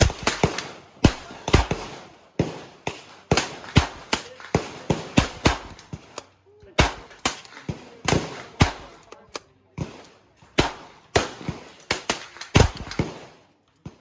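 A long, uneven string of .22 LR rifle shots, roughly two sharp cracks a second with a short break a little past the middle, then an abrupt stop just before the end.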